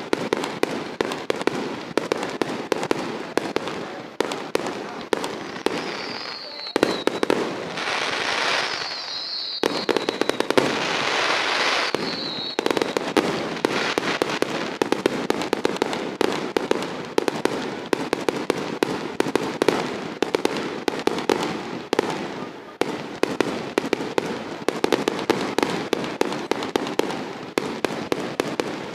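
Fireworks and firecrackers going off in a rapid, unbroken run of sharp cracks and bangs. Twice, partway through, a hissing burst with a falling whistle cuts through the crackling.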